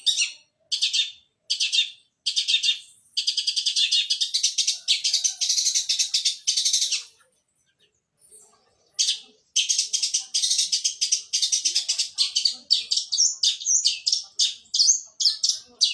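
Long-tailed shrike singing a rapid string of high chirps that imitate Eurasian tree sparrow calls: short bursts at first, a pause about seven seconds in, then a long unbroken run of chirping.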